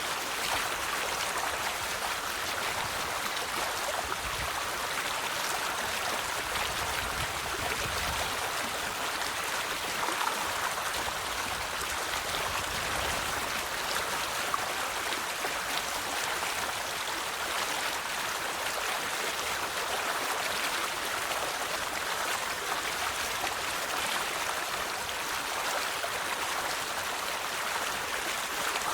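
A river's flowing water: a steady rushing and babbling of a stream, with fine splashing detail throughout.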